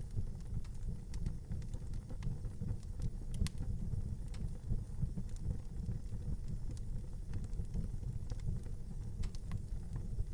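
Fire burning in a fireplace: a steady low rumble with scattered, irregular sharp crackles and pops.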